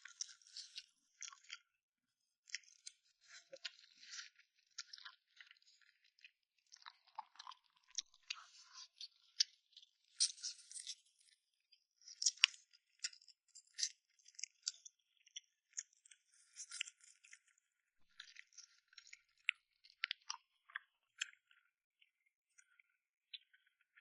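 Close-miked chewing and mouth sounds of a person eating soft-shelled turtle stew: irregular runs of small clicks and smacks with short pauses between bites.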